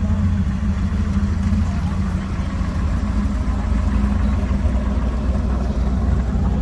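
A car engine running steadily close by, a deep, even sound with rapid firing pulses.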